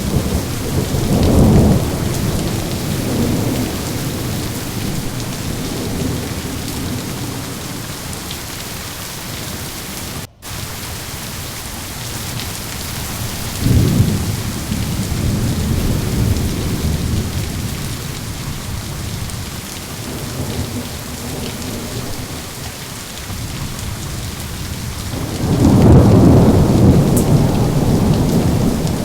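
Thunderstorm: steady rain with thunder rumbling three times, early, about halfway and loudest near the end. A split-second dropout of all sound about a third of the way through.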